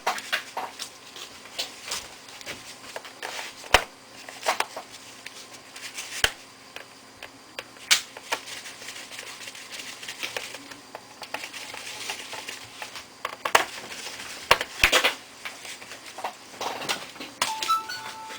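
Irregular clicks, taps and knocks of a Toshiba A300 laptop's plastic casing parts and small tools being handled and fitted during reassembly.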